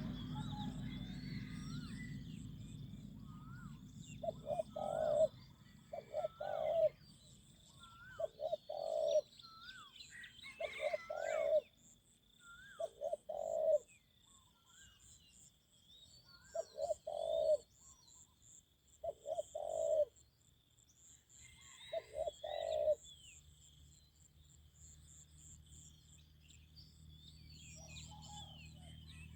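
Spotted dove cooing in short phrases of two or three low notes, about eight times over some twenty seconds, then falling quiet. Small birds chirp faintly behind it.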